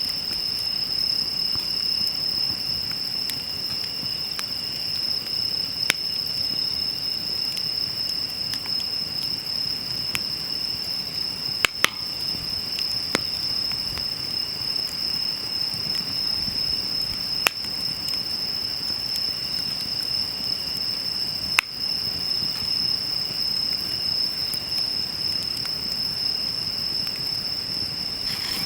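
Wood fire crackling, with a handful of sharp pops from the burning wood, under a steady high-pitched trill of night insects such as crickets.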